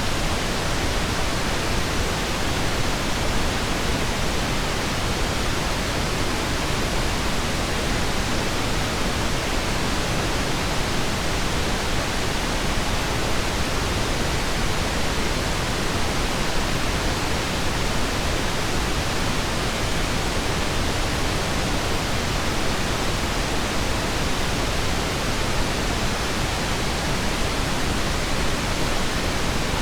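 Steady synthetic pink noise, an even hiss with no breaks or changes.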